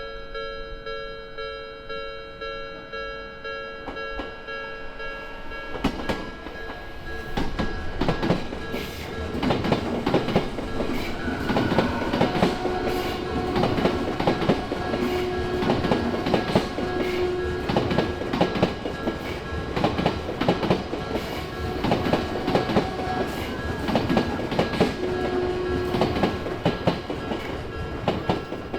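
Odakyu electric train passing over a level crossing, its wheels clattering over the rail joints from about six seconds in, while the crossing's warning bell rings steadily throughout.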